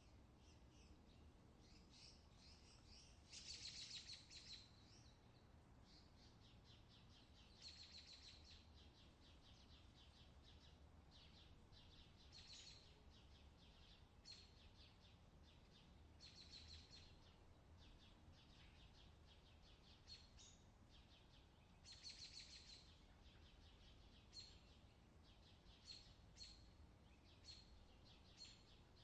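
Faint outdoor summer ambience: birds chirping in short, rapid trills every few seconds, then quicker single chirps near the end, over a low steady rumble.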